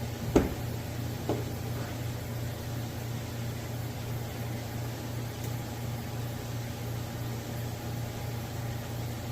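A sharp knock just after the start and a lighter one about a second in, then a steady low hum.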